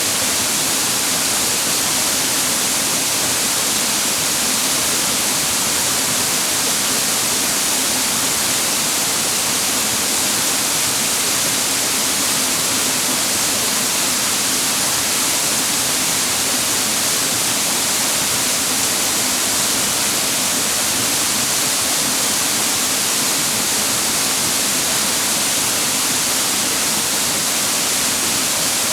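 Mountain waterfall pouring over rocks: a steady, unbroken rush of water, bright and hissy.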